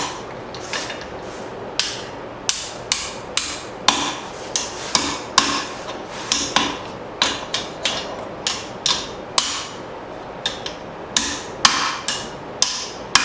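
Hand hammer striking a steel bracket on an anvil, a run of ringing blows about two a second as the metal is straightened and shaped.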